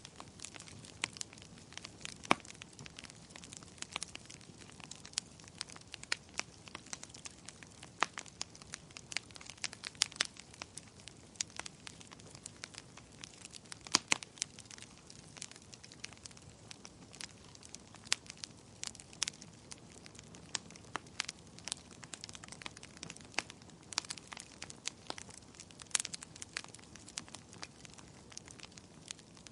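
Wood fire crackling in a fireplace: a soft steady hiss with frequent irregular snaps and pops, a few much sharper than the rest.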